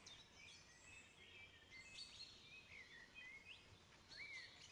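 Faint birdsong: a run of quick high chirps and short whistled notes, some sliding up or down in pitch.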